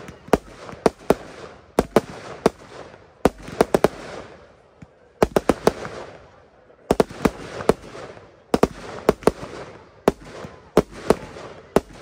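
Aerial fireworks bursting in rapid clusters of sharp bangs, with a hiss between them and a brief lull about four to five seconds in.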